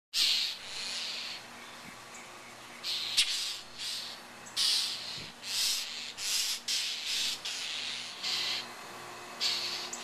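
A bird giving harsh, raspy scolding calls again and again, about a dozen short ones in a row: alarm calls from a bird mobbing a cat.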